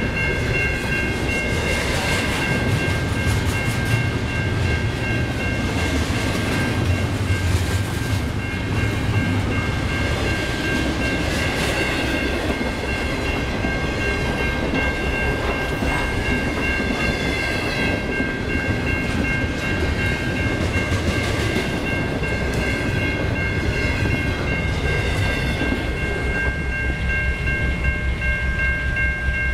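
Intermodal freight cars rolling past, wheels clacking over the rail joints under a steady rumble, with the tail of the train clearing the crossing near the end. A grade-crossing warning bell rings steadily throughout and keeps ringing after the train has gone.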